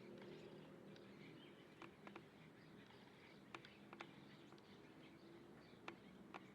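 Faint bird chirps over a quiet low background hum, with a few short sharp clicks scattered through, some in pairs.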